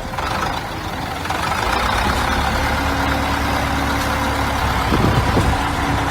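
Tractor engine running steadily under load, with a brief waver in pitch about five seconds in.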